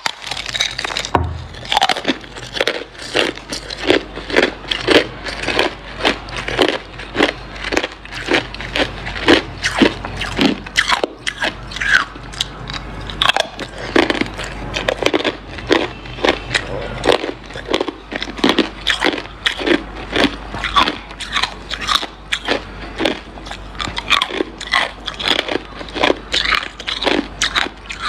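A person biting and chewing hard ice: a continuous run of loud, sharp crunches, several a second.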